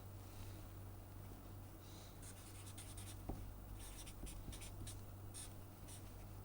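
Faint pen scratching in many short strokes on a writing surface as a graph is sketched, starting about two seconds in, over a steady low hum.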